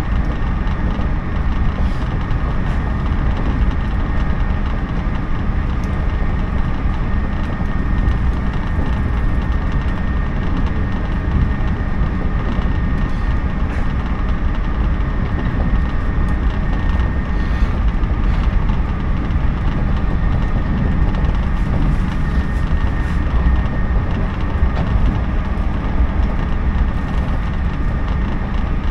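Running noise of a JNR 113-series electric train heard from inside the carriage at speed: a steady, heavy rumble with a faint steady whine above it.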